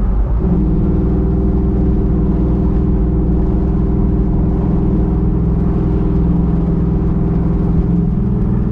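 383 stroker small-block V8 running at a steady speed, a low, even engine note that holds its pitch throughout.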